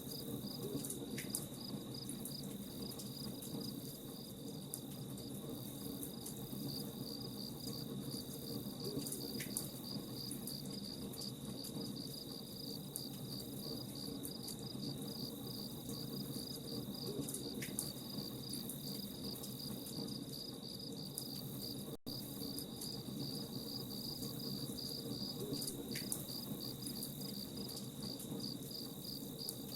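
Crickets chirping in a fast, steady, unbroken trill, over a low even hiss with scattered faint crackles typical of a campfire burning.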